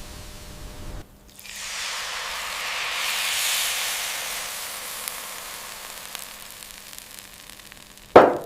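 A hiss that builds for a couple of seconds and then slowly dies away, ending in a sudden loud burst near the end.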